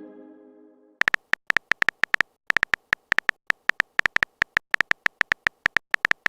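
Phone-keyboard typing sound effect: a fast, uneven run of short clicks, several a second, starting about a second in. Before the clicks, the tail of a chime fades out.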